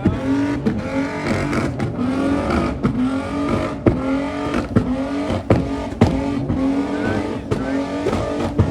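Car engine held at high revs, its note rising slightly in short stretches, with sharp exhaust cracks about twice a second.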